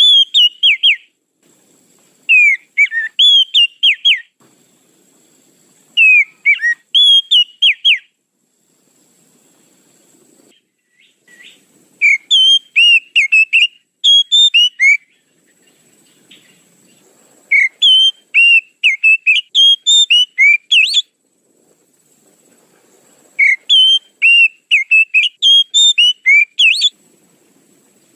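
Oriental magpie-robin (kacer) calls played as a lure: loud bursts of quick whistled and chirping notes, each burst one to three seconds long, repeating every few seconds with short quiet gaps.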